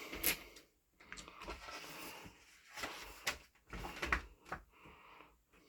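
Pages of a guidebook being handled and turned: paper rustling with a few short, sharp clicks and knocks.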